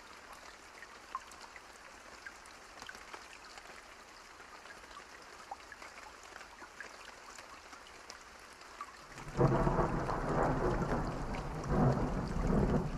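Steady rain with scattered drop ticks. About nine seconds in, a loud roll of thunder sets in and rumbles on, swelling again near the end.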